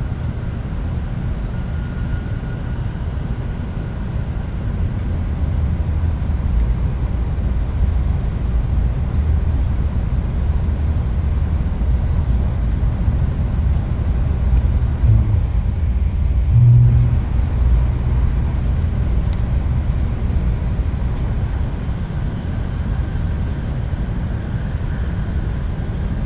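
Tokaido Shinkansen train at speed, heard from inside the passenger cabin: a steady low rumble of running noise, with a short low bump about two-thirds of the way through.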